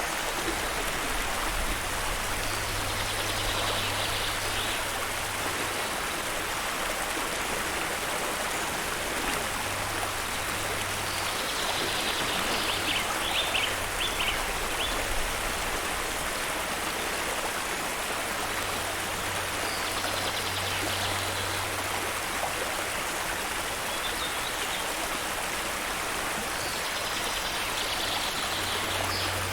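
Steady rushing of a waterfall or stream, an even wash of water noise. A faint high trill repeats every several seconds over it.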